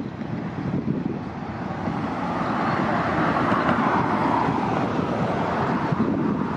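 City transit bus driving past, its engine and tyre noise swelling to a peak about three to four seconds in, then easing off.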